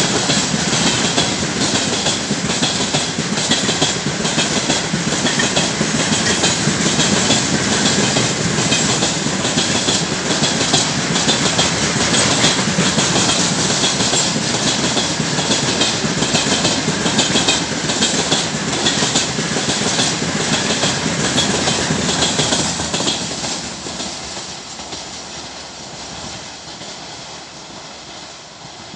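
Tank cars of a long freight train rolling past, their wheels clattering steadily over the rail joints. The last car goes by about 23 seconds in and the sound fades away.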